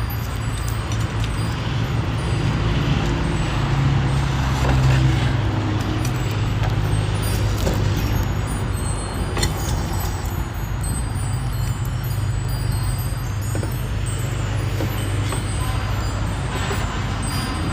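Steady low rumbling hum with background noise, and a few light clinks and faint tinkling scattered through it.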